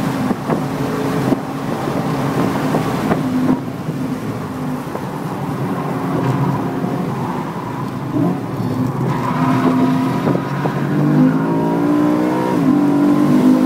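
Car engine running hard on a race circuit, heard from inside the cabin; its note holds steady for most of the time, then rises and falls several times in the last few seconds as the car accelerates.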